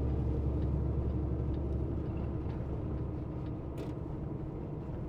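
Semi tanker truck's diesel engine and road noise heard from inside the cab while driving: a steady low rumble that eases off slightly after about two seconds.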